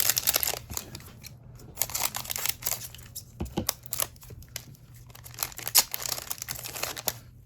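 A trading-card pack's wrapper being torn open and crinkled, in clusters of rustling crackles with a few sharper snaps.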